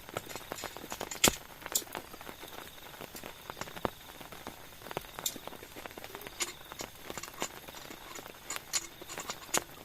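Scattered raindrops dripping and tapping irregularly on a tent or tarp, with one louder tap about a second in.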